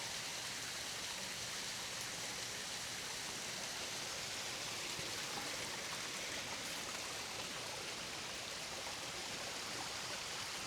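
Small creek waterfall: water pouring and splashing in a steady, even rush.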